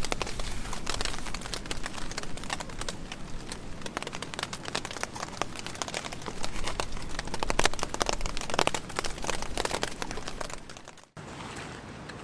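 Crinkling and rustling of camping gear being handled and packed, with dense small crackles and louder spells of rustling; it cuts off about eleven seconds in to a quieter steady hiss.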